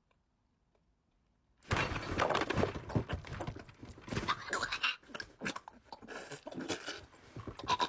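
Irregular crunching and chewing with muffled voice sounds mixed in, starting after about a second and a half of silence.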